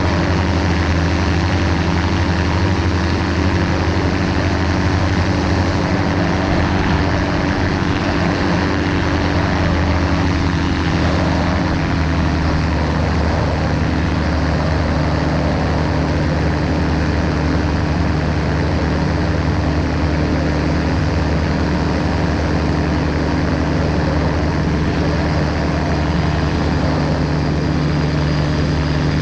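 Ultralight aircraft's propeller engine running steadily at cruise power, with a small change in engine note about eleven seconds in.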